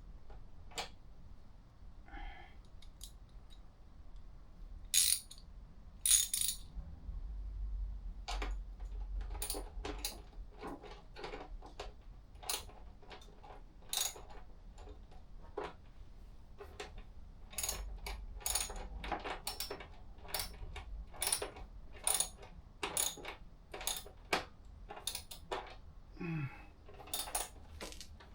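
Irregular metallic clicks and clinks of hand tools and small hardware (screws, washers, bolts) being handled and fitted, some clicks coming in quick runs.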